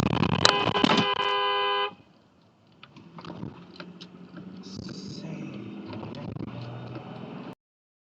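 A car horn sounding in one long held blast that stops about two seconds in, followed by quieter traffic noise with a low hum and scattered clicks. The sound cuts off abruptly near the end.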